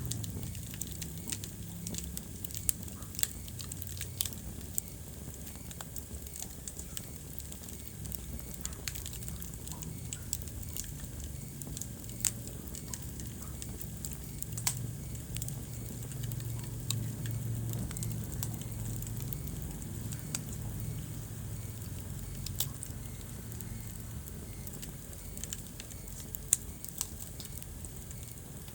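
Wood fire burning in a fireplace: frequent sharp crackles and pops, a few of them louder, over a low steady rumble of the flames.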